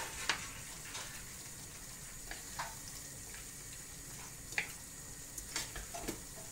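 Beef and bell pepper stir fry sizzling steadily in a nonstick frying pan while a wooden spatula stirs it. Light scrapes and taps of the spatula against the pan come every second or so.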